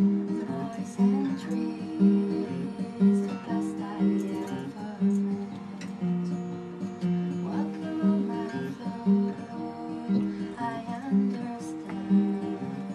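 Live instrumental music: a guitar plucking and strumming a repeating figure of notes, with new notes struck about once a second.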